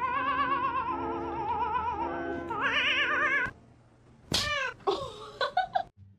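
A cat yowling in a long call with a wavering pitch, over steady music notes, then breaking off. About a second later comes a sharp meow, followed by a few short meows.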